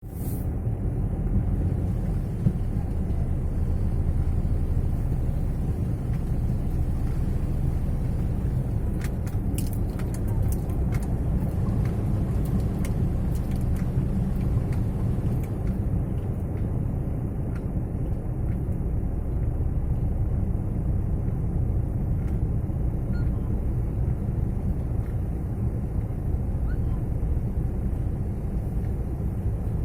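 Steady low rumble of a road vehicle running, with a scatter of faint clicks between about 9 and 15 seconds in.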